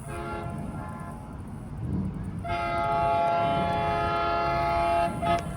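Locomotive air horn, a Nathan K5LA five-chime, sounding over the low rumble of the arriving commuter train. A fainter first blast is followed, from about halfway in, by a long, loud chord that cuts off near the end with one short final toot.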